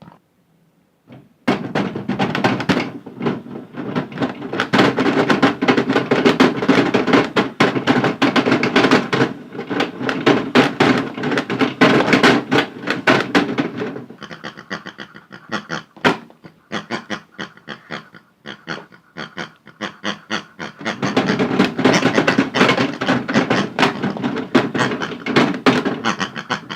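Modified toy washing machine tumbling small hard toys in its drum: rapid, dense knocking and clattering that starts about a second and a half in, thins to scattered knocks midway, picks up again, and stops just before the end.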